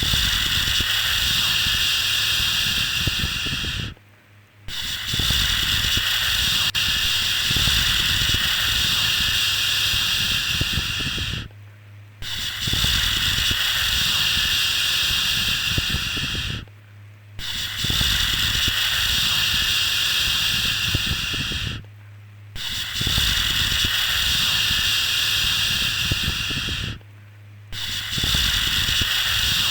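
Long, steady 'shhh' shushes, the kind used to soothe a baby to sleep. Each lasts about four to seven seconds, with a short pause between them, and a faint low hum runs underneath.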